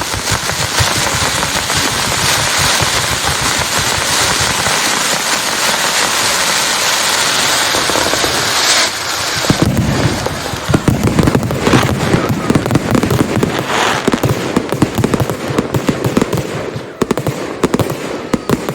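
Consumer fireworks going off: a dense hissing crackle for about nine seconds, then a rapid string of sharp bangs and cracks that stops abruptly at the end.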